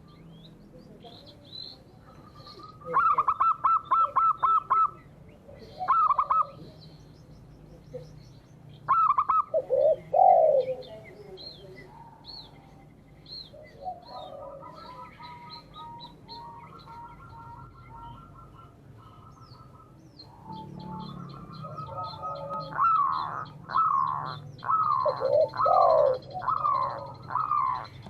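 Several birds calling at once: high chirping throughout, loud bursts of fast repeated notes about three, six and nine seconds in, and dove coos among them. Near the end comes a run of repeated falling calls.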